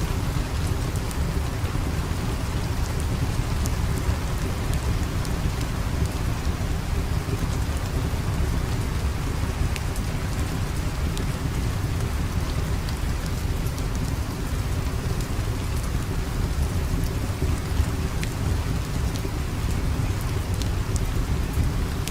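Steady rain ambience with a deep continuous rumble underneath and scattered sharp crackles from a fire.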